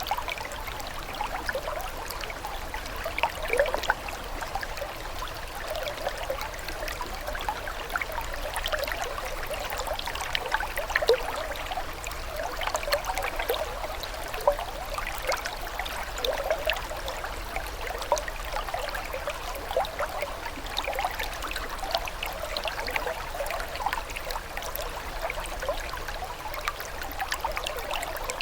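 Running water trickling and gurgling steadily, with many small splashes and bubbles that keep up without a break.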